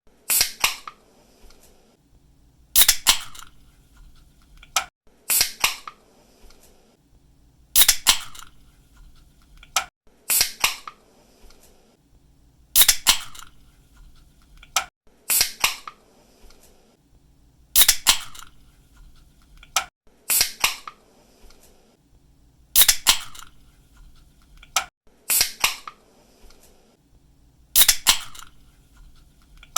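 Aluminium drink can pull-tabs being snapped open again and again, a sharp crack with a brief fizz about every two and a half seconds, some preceded by a faint click of the tab.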